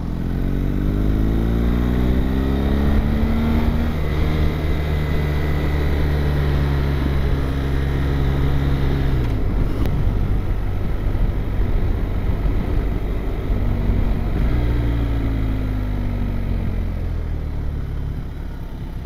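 BMW R 1250 GS Adventure's boxer-twin engine under way, climbing in pitch through the first few seconds, holding steady, then rolling off about halfway through and pulling up again near the end, with steady wind noise.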